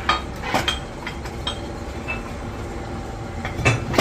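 Sharp metallic clanks of heavy steel parts knocked together, a few irregular strikes with a brief ring, the loudest near the end, over a steady low hum.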